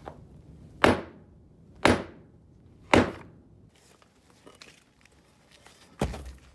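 Heavy hammer blows striking concrete: three hard, ringing hits about a second apart, then a fourth hit a few seconds later.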